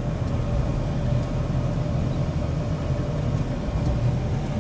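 Volvo rubber-tire wheel loader's diesel engine running steadily, heard from inside the cab, with a faint steady whine above the low drone.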